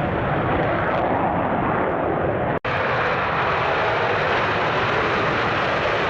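Military jet engine running with a steady, loud, even noise. The sound drops out for an instant about two and a half seconds in.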